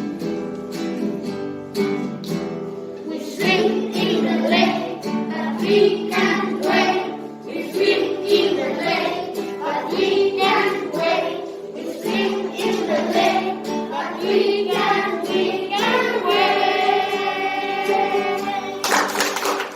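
Children's choir singing a song to acoustic guitar strumming. The guitar plays alone for about the first three seconds, the voices end on a long held note, and a short loud burst of noise comes just before the end.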